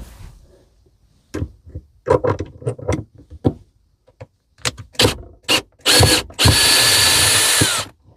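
Power drill backing screws out of a worktop support: scattered clicks and knocks of handling, a short burst of the motor, then a steady whine for about a second and a half that drops in pitch as it stops.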